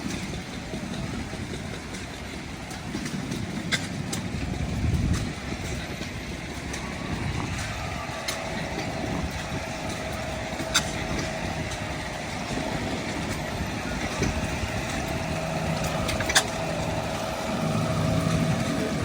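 Engines of antique vehicles running at idle, with voices in the background. A thin steady tone comes in about eight seconds in, and there are a few sharp clicks.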